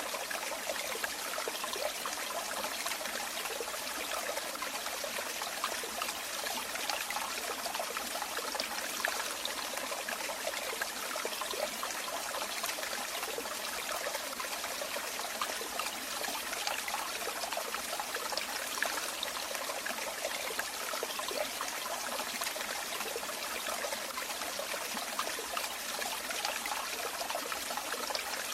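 Running water trickling and splashing steadily, like a small stream or water falling over stones, with no change in flow.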